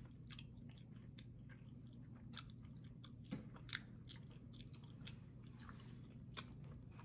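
Faint close-miked chewing: soft, irregular wet mouth clicks while a mouthful of food is eaten, with a couple of louder clicks a little past three seconds in.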